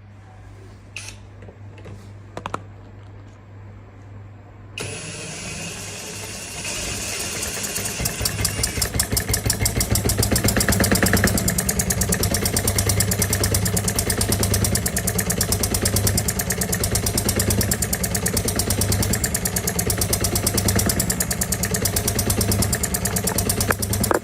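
Small model diesel engine from a D16 kit, with a few clicks at first. About five seconds in it starts, builds up and settles into running at a fast, even beat.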